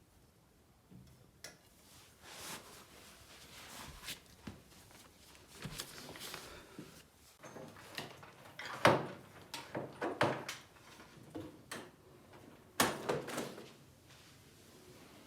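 Scrapes, clicks and knocks of furniture being handled, like drawers sliding and bumping. Two sharp knocks about nine and thirteen seconds in are the loudest.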